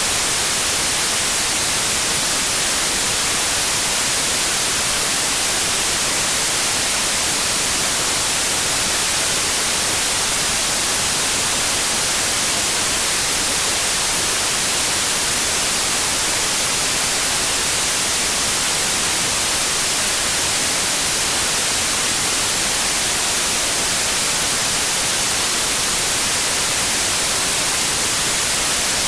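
Steady, unchanging white noise from a noise generator: an even hiss, brightest in the high end, with no rhythm or tones.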